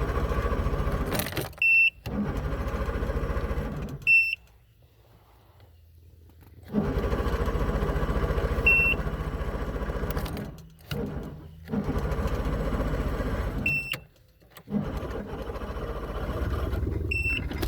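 50 hp Johnson outboard being cranked by its electric starter in five separate tries of one to four seconds each, with a short high beep about the end of each try. The key is pushed in to choke the engine during cranking.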